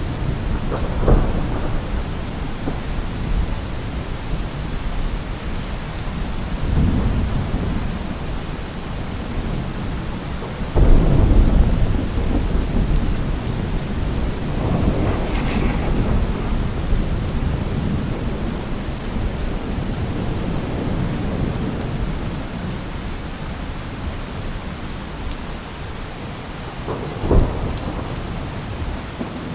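Steady heavy rain with repeated rolls of thunder: a sharp crack about a second in, rumbles around 7 and 15 seconds, the loudest peal about 11 seconds in, and another sharp crack near the end.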